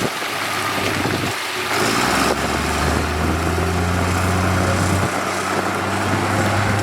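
Heavy diesel engine of road-construction machinery running steadily, with a low engine note that grows stronger about two seconds in.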